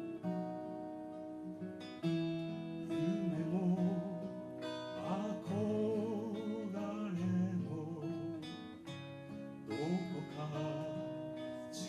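Live acoustic guitar music, with a wavering sung melody over the guitar from about three seconds in.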